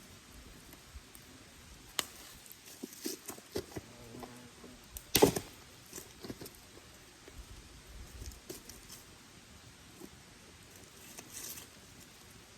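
Wood fire crackling: irregular snaps and pops, with one sharper, louder pop about five seconds in, over a faint steady hiss.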